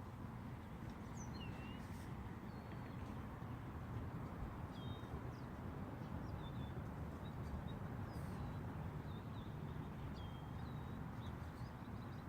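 Birds calling, with scattered short chirps and whistles, some sliding in pitch, over a steady low outdoor rumble.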